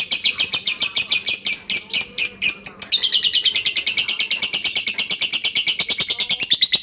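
Lovebird singing the long 'ngekek' trill: an unbroken run of rapid, shrill chattering notes, about ten a second. About three seconds in it shifts to a slightly lower, smoother trill. This long ngekek is the song that lovebird keepers train for and prize in competition birds.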